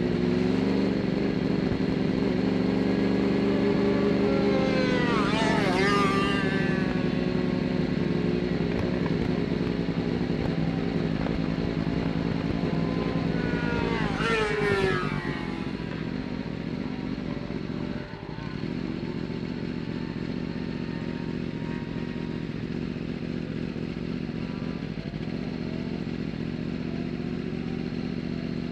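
Superbike engine running at idle, its revs blipped up and back down twice, about five seconds in and again around fifteen seconds in.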